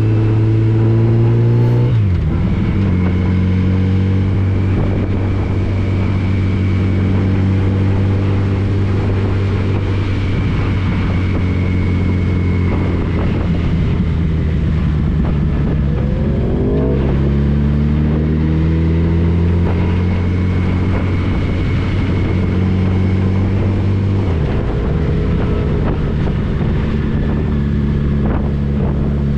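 Yamaha FJR1300's inline-four engine running under way, with wind rush. The engine note drops sharply about two seconds in and again near the end, and climbs for a moment past the middle.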